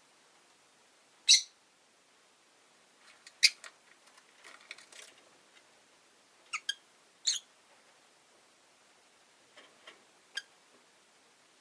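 Rosy-faced lovebirds giving short, sharp chirps at irregular intervals, the loudest about a second in, with a spell of softer chatter in the middle.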